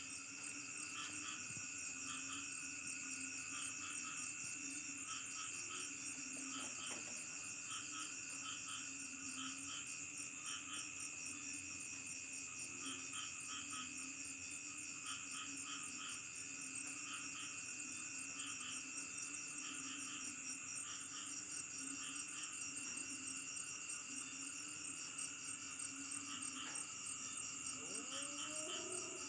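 Night chorus of crickets and other insects trilling without a break, several overlapping calls at once: some steady, some in rhythmic pulsing clusters, over a lower steady drone.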